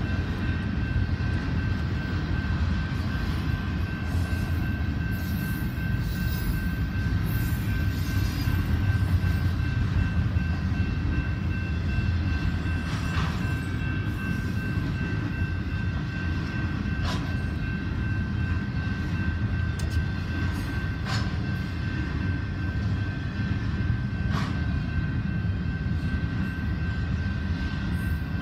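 Union Pacific double-stack container freight train passing over a road crossing, a steady heavy rumble with a few sharp clanks and a steady high whine, heard from inside a car.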